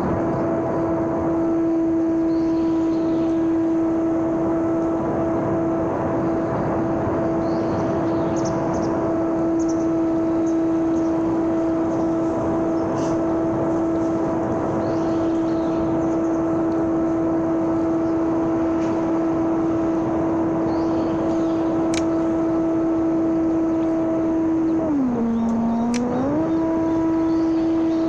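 Electric motor and propeller of a homemade RC airplane running at a steady pitch in flight, with a rush of air noise. About 25 seconds in, the pitch drops briefly as the throttle is eased, then rises back to the same note.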